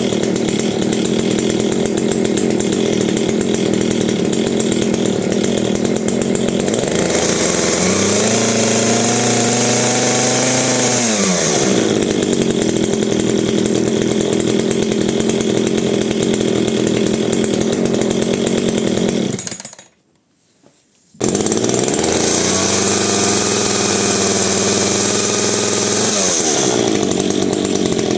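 Makita MEA3500L two-stroke chainsaw engine idling and being revved up, held and let back down to idle. About twenty seconds in it stops, then restarts within about a second and is revved again.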